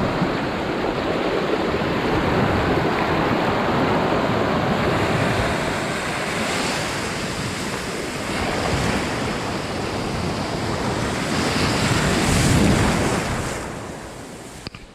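Ocean waves breaking and washing up on a beach, with wind on the microphone. Surges of surf come about six and twelve seconds in, and the sound fades out near the end.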